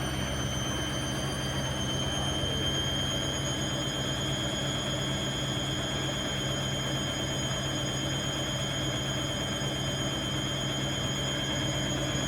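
Washing machine running at speed, most likely spinning: a steady low hum under a high motor whine that rises slightly in pitch over the first few seconds and then holds steady.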